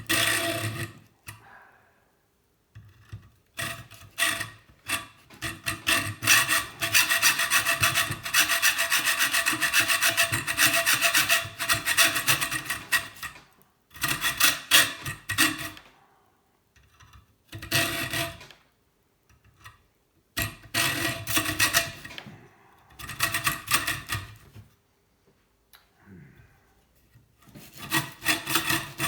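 Sawing through the metal tube of a kettle heating element with fast, even back-and-forth strokes, in bouts with short pauses and one long unbroken run in the middle. The metal tube rings faintly under each run of strokes.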